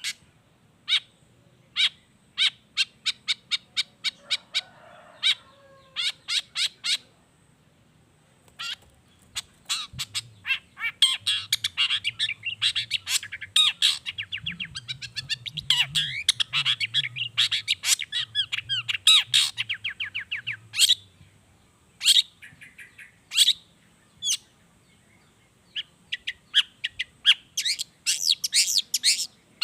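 Long-tailed shrike (cendet) singing vigorously, mixing mimicked calls of other birds into its song. Runs of sharp separate notes give way to a long stretch of fast, dense chattering in the middle, with short pauses between phrases.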